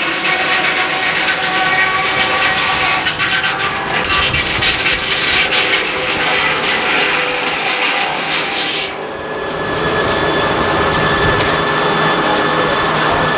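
Sawmill saw cutting through a log: a loud, rasping cut over the steady whine of the running mill. About nine seconds in, the high cutting noise stops abruptly and the mill runs on.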